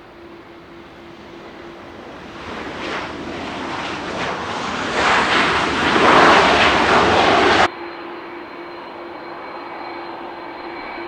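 Jet airliner engine noise growing steadily louder as the plane passes close, then cutting off suddenly about three-quarters of the way through. A quieter, steady jet engine noise follows.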